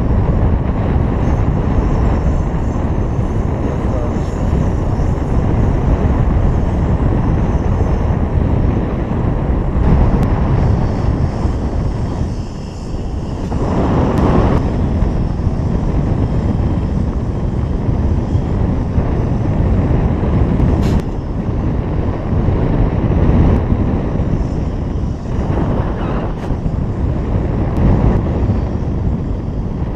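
Strong wind buffeting the microphone in flight under a paraglider, a steady rush with gusts; it dips briefly and then swells louder near the middle. The wind is strengthening.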